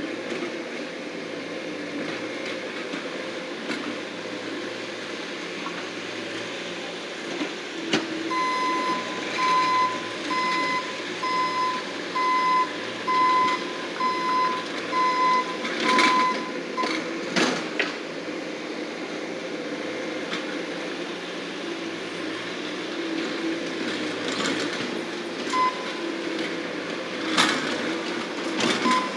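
Bobcat skid-steer loader's engine running steadily while its backup alarm beeps about a dozen times in an even rhythm, then stops. A few sharp knocks come through in the second half.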